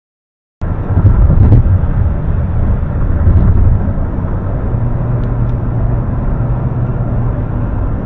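A car driving: steady low road and engine rumble that cuts in abruptly about half a second in, a little louder for the first three seconds.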